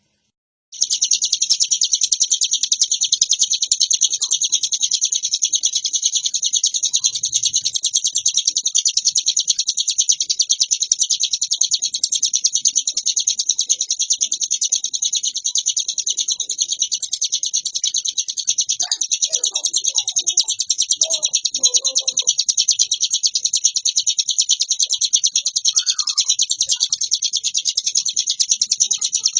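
Ciblek gunung, a prinia, singing nonstop in a very rapid, high-pitched rattling trill ("ngebren"), starting just under a second in after a brief gap. A few faint lower notes sound beneath it about two-thirds of the way through.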